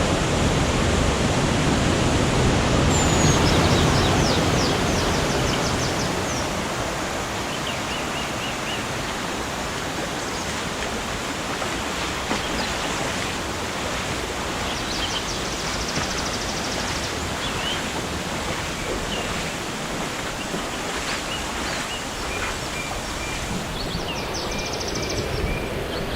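Steady rush of flowing water, louder for the first few seconds and then easing off, with forest birds calling over it now and then: short repeated chirps, and a fast high trill a little past halfway.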